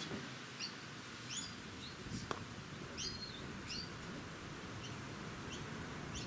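Bird chirping: short, high chirps repeated about once or twice a second over a low outdoor background, with a single sharp click a little over two seconds in.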